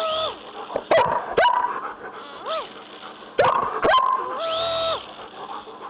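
German shepherd barking sharply several times, with high-pitched whining yelps between the barks, the last one held for about half a second.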